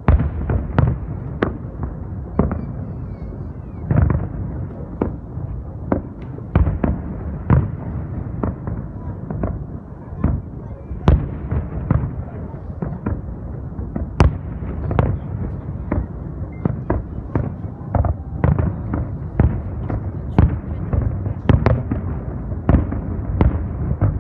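Fireworks display: a rapid, irregular string of aerial shell bursts, one to two bangs a second, over a continuous low rumble of launches and echoes.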